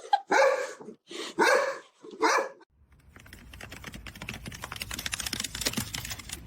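A dog barks three times, loud and pitched, then a fast run of small clicks and scratches over a low rumble follows for the rest of the time.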